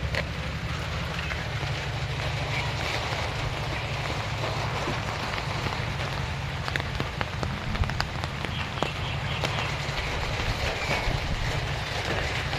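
Steady rain falling, an even hiss with scattered sharp ticks of drops, over a constant low rumble.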